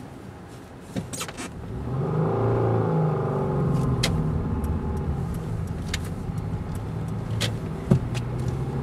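2000 Subaru Outback's engine heard from inside the cabin, pulling harder from about two seconds in as the car climbs through snow, with scattered sharp clicks and a short knock near the end.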